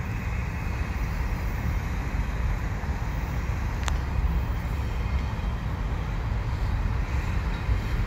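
Double-stack container train of TTX well cars rolling past close by: a steady rumble of wheels on rail, with a single brief click about four seconds in.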